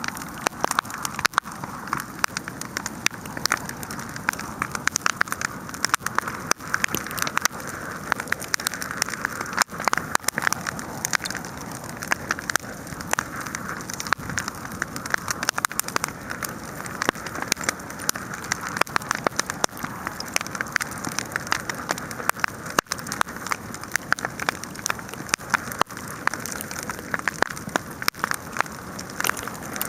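Large outdoor wood fire burning, crackling steadily with many small sharp pops over a constant hissing rush.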